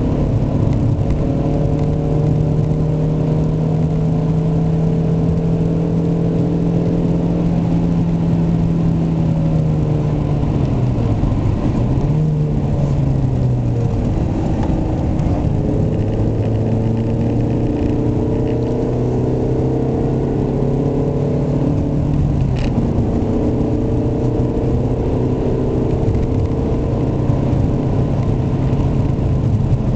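Ford Mondeo Estate's 1.6-litre, 125 hp four-cylinder petrol engine running under way. Its note holds steady, drops in pitch about ten seconds in, rises briefly, then settles to a steady lower note, with one short click a little after twenty seconds. The owner finds this engine very noisy and reluctant to rev.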